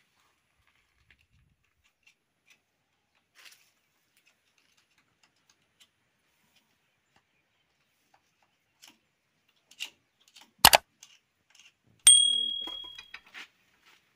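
Scattered faint clicks and taps, then a sharp knock and, a moment later, a metal object struck and ringing out with a clear high tone that dies away over about a second, like a tool knocking against metal.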